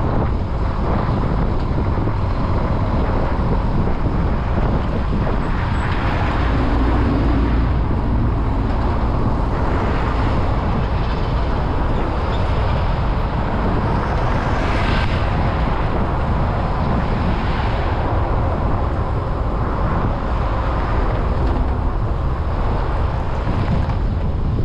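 Steady road-traffic noise from cars, rising and falling several times as vehicles pass, with wind on the microphone.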